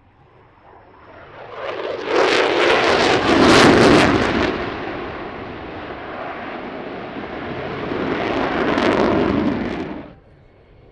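An aircraft flying past at an airshow, a loud rushing engine noise that builds quickly, peaks, eases and swells again, then cuts off suddenly near the end.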